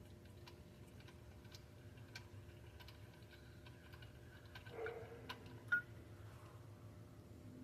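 Faint scattered clicks and light metallic ticks of a socket wrench working a tight knock sensor loose in the engine valley, with a slightly louder clink about five to six seconds in.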